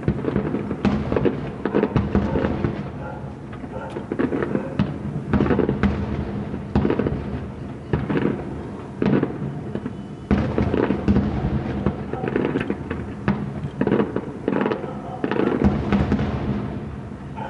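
Fireworks display: aerial shells bursting in a dense, irregular series of bangs, several a second.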